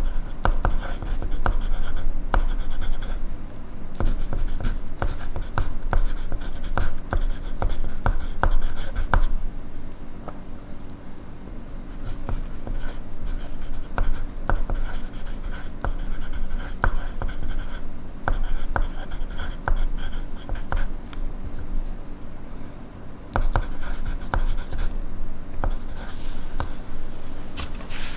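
Pencil writing on paper: runs of quick scratchy strokes with short pauses between them.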